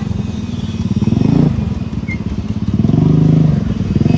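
Motorcycle engine revving up and easing off twice while riding. Its pitch climbs and then drops suddenly about a second and a half in, then rises and falls again.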